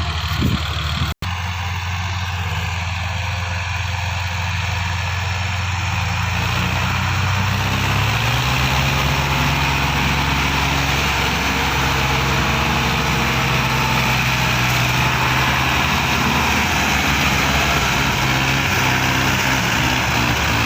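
Diesel tractor engine running steadily while hauling a heavy load of sugarcane, its note stepping up slightly about eight seconds in. The sound drops out for an instant about a second in.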